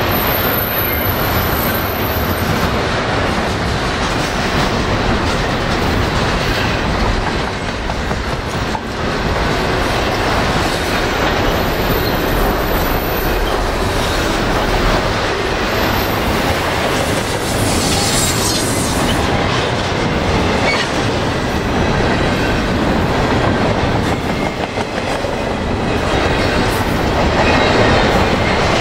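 Double-stack intermodal freight train passing close by: the wheels of its container well cars run over the rails with a steady, loud rumble.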